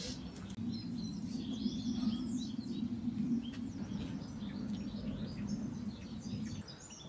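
Small songbirds chirping and singing, many short high chirps and trills. Under them runs a low steady hum that fades out near the end.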